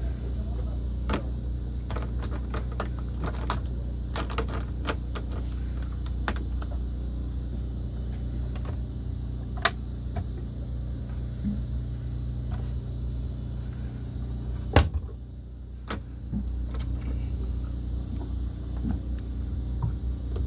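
An engine running at a steady idle, with scattered clicks and taps over it and a sharp knock about 15 seconds in, after which the level dips for about a second.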